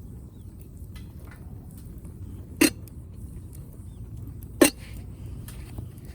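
Firewood burning in a fire stand: faint crackling over a low steady rumble, with two loud sharp pops about two seconds apart near the middle.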